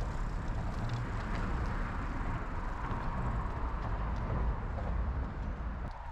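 Riding noise from a moving GoCycle GX electric bike: a steady, buffeting wind rumble on the camera's microphone with tyre and road noise underneath. The low rumble eases right at the end.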